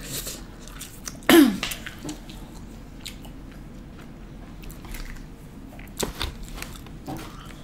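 Close-up chewing and biting of fried chicken fingers, with a short, loud throat sound falling in pitch about a second and a half in. A few sharper clicks near the end come from a plastic fork digging into a foam takeout box.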